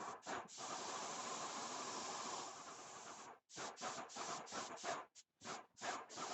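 Primer being sprayed: a steady hiss for about three seconds, then a series of short spurts with brief pauses between them.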